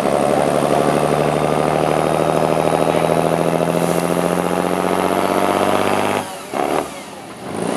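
Heavy off-road trial truck engine running steadily at a fairly even speed. The sound cuts off suddenly about six seconds in, with one short burst a moment later.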